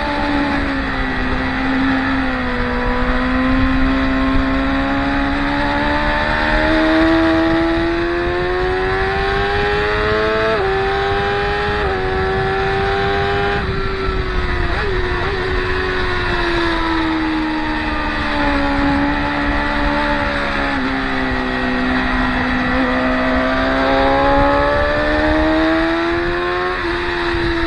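Several sport motorcycles running continuously on a race track at a corner. Their engine notes sink as they brake, then climb again under acceleration, with sudden jumps in pitch at gear changes.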